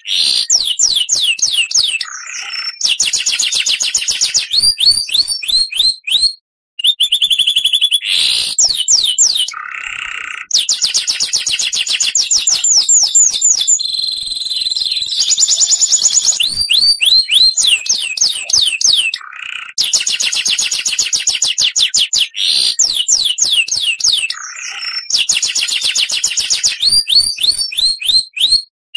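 Oriental magpie-robin (kacer) singing loud, fast runs of repeated sliding chirps in phrases that recur again and again, with two brief pauses, about a quarter of the way in and near the end.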